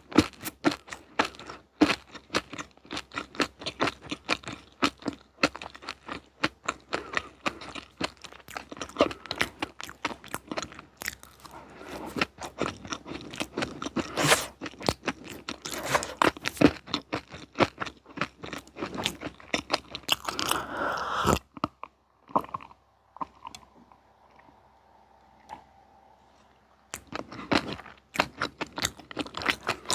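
Close-miked chewing of crunchy chocolate snacks: dense, crackly crunches for about twenty seconds, then a pause of a few seconds before the crunching starts again near the end.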